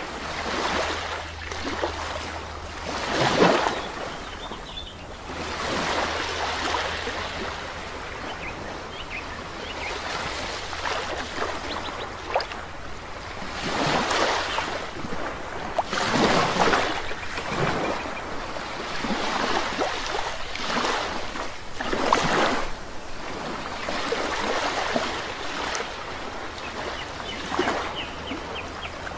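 Sea waves breaking and washing up on a shore, a steady surf with louder surges every few seconds, the strongest about three seconds in.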